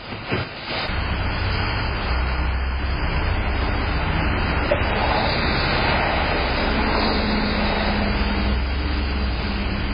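A motor vehicle running steadily close to a doorbell camera's microphone. A low, steady hum sets in about a second in.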